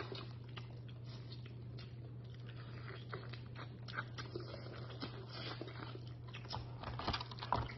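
Quiet chewing and lip smacking as boiled lobster meat is eaten by hand, with scattered small clicks, a few stronger ones near the end, over a steady low hum.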